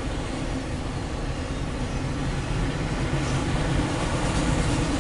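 Empty autorack cars of a CSX freight train rolling past on the rails: a steady rumble that grows slightly louder.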